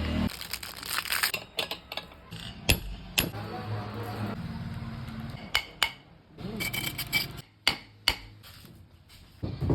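Metal tools clinking and tapping on electric motor parts during repair, with a low steady hum for a couple of seconds in the middle.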